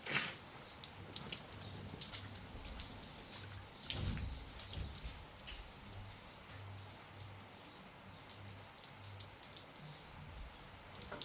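Rain falling: irregular drops and drips ticking on a surface, with a soft thump at the very start and another about four seconds in.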